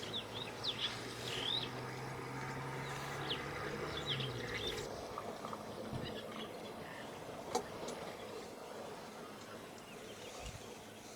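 Birds giving short, sharp chirping calls in the first half, over a steady low hum that stops about four and a half seconds in. A single sharp click comes later.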